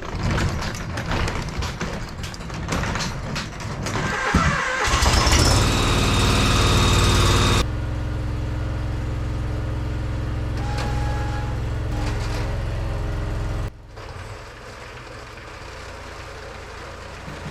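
John Deere X585 garden tractor engine being started about four seconds in and then running steadily. The level drops suddenly twice, at about eight and about fourteen seconds.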